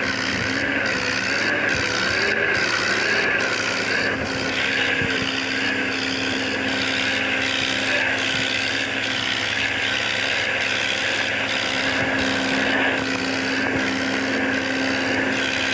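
Diesel tractor engines running steadily at high revs while pulling against each other in a tractor tug-of-war. Under the steady drone sits a higher tone that wavers up and down about once a second.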